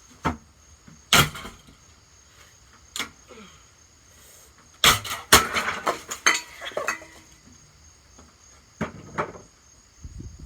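Hammer blows smashing a Hampton Bay ceiling fan: separate sharp hits, then a quick run of blows and rattling parts about five to seven seconds in, and two more hits near the end.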